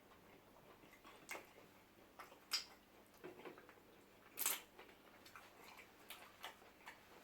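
Quiet eating sounds from people eating pounded yam and soup: scattered soft clicks and smacks of mouths and hands at the food, the loudest about four and a half seconds in.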